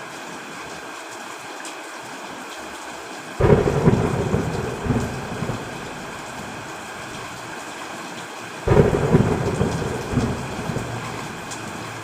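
Steady rain with two sudden claps of thunder about five seconds apart, each rumbling away over a couple of seconds.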